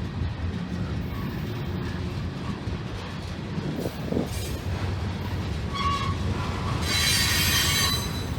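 Union Pacific freight train rolling past with a steady low rumble; from about six seconds in its wheels squeal in high ringing tones, loudest near the end.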